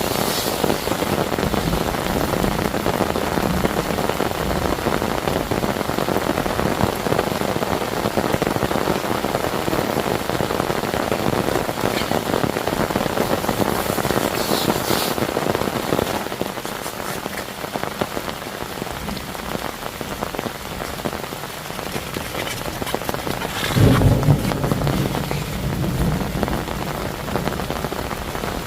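Heavy rain falling steadily, with a brief louder low rumble near the end.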